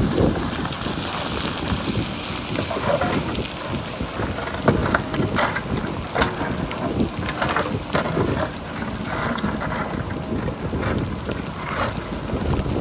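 Strong wind buffeting the microphone with a low rumble, over a JCB backhoe loader working on a rocky hillside. Repeated short crunching bursts run through most of it.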